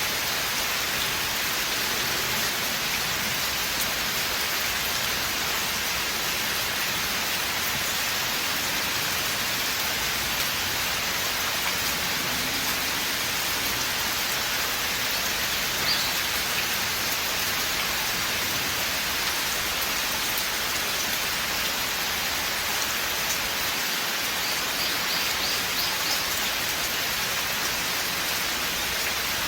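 Steady rain falling through a forest, a dense, even hiss of countless drops on leaves and ground. A few faint ticks stand out about halfway through and again near the end.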